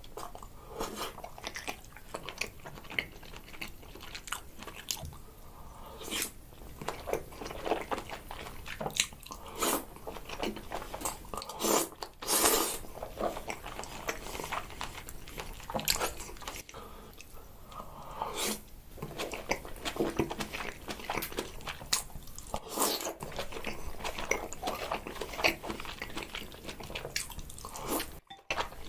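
Close-miked mukbang eating of king salmon sushi and noodles: biting and chewing, with a steady run of irregular mouth clicks and crunches.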